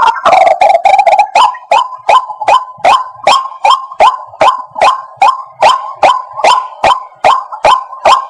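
White-breasted waterhen calling: a fast, harsh run of notes about the first second, then a steady, monotonous series of short sharp notes at about two and a half a second.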